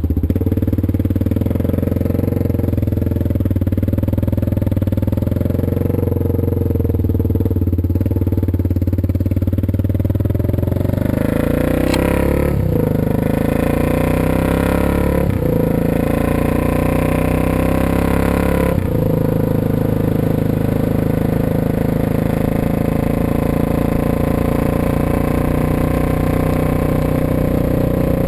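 Suzuki DR650 single-cylinder motorcycle engine running just after starting, steady for about ten seconds. Around the middle its pitch rises and drops three times, then it settles into a steady run.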